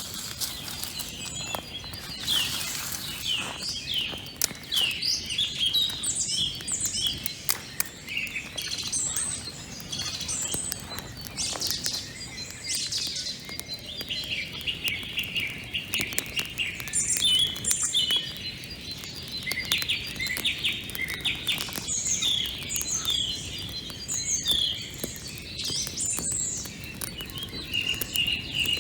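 Small birds chirping and singing continuously, many quick high notes and short trills overlapping, with a few faint clicks among them.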